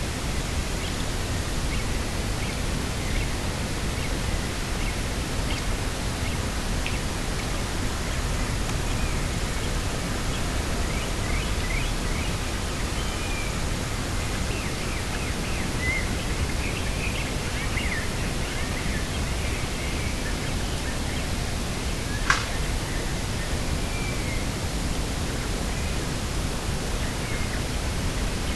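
Steady wind rush with a deep rumble, with small birds chirping faintly through the middle. A single sharp click about three-quarters of the way through.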